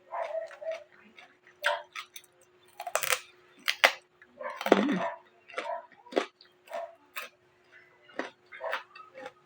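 Raw carrot being chewed close to the microphone: irregular crisp crunches, a few a second. A faint steady hum runs underneath.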